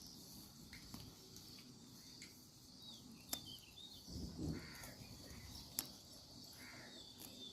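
Faint bird calls, a few short calls spread through the quiet, with two sharp clicks in the middle.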